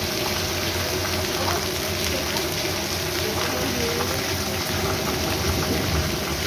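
Heavy rain falling onto a flooded street and wet paving: a steady hiss of drops and splashing on standing water.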